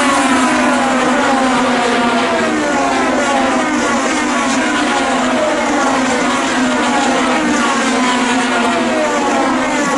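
IndyCar race cars' engines running at full throttle, several at once, their pitch sliding down again and again as cars go by.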